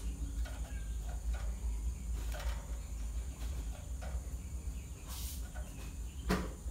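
Java sparrows (gelatik jawa) giving short, scattered chirping call notes, the kind used as a lure call, over a steady low hum. A sharper knock comes near the end.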